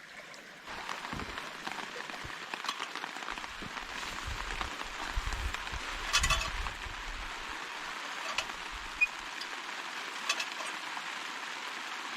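Steady rain falling, an even hiss that comes in under a second in, with scattered sharper ticks of single drops.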